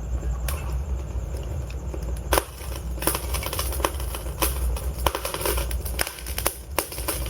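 Wood fire burning in a fireplace: burning logs crackling and popping over a low, steady rumble of the flames. The pops come thicker from a little over two seconds in.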